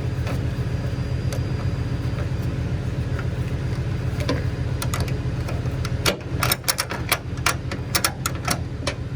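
Flatbed rollback tow truck's engine idling steadily. From about six seconds in, a quick run of sharp ratchet clicks is heard as a tie-down strap on the motorcycle is tightened.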